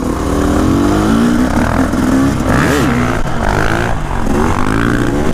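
Dirt bike engine running steadily, with one quick rev up and back down about two and a half seconds in.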